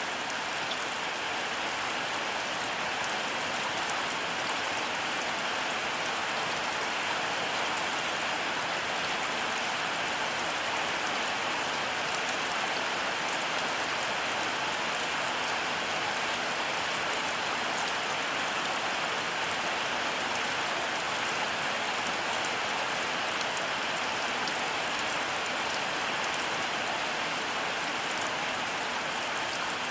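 Heavy rain falling steadily, a dense even hiss of drops on surfaces with fine scattered patter, no thunder.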